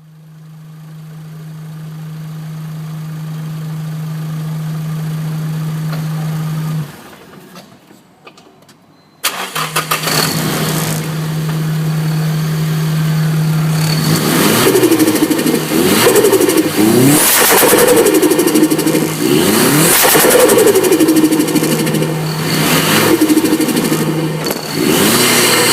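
Turbocharged car engine: a steady hum swells for about seven seconds and cuts off, then after a short pause the engine starts about nine seconds in. It runs steadily, then from about fourteen seconds is revved up and down repeatedly, with turbo flutter each time the throttle is lifted.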